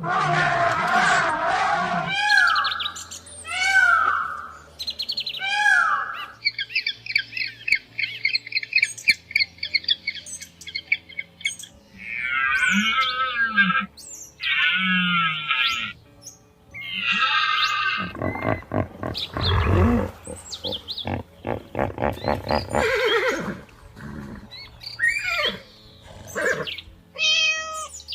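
A string of different animal and bird calls, one after another: falling cries, short repeated chirps, and a long held call, changing abruptly every few seconds.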